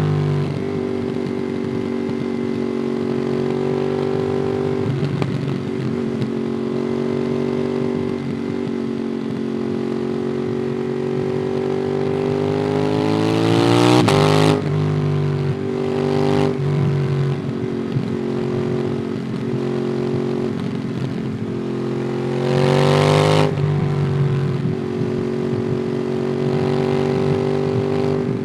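Ducati Monster 821's L-twin engine through a QD Twin Gunshot aftermarket exhaust, heard onboard while riding. It runs mostly at a steady engine speed, with two rises in revs, about halfway and near the end, each ending in a sudden drop in revs.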